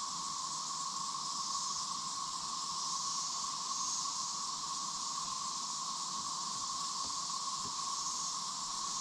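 Steady chorus of insects, a constant high buzz with an even tone beneath it that does not change.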